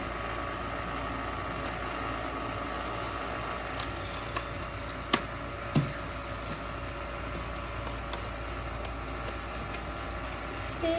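Toy train packaging being opened by hand: a few sharp clicks and snaps about four, five and six seconds in, over a steady room hum.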